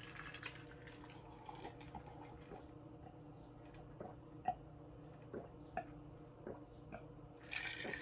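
Wet mouth sounds of a man eating creamed spinach: soft chewing with scattered short smacks and clicks, over a faint steady hum.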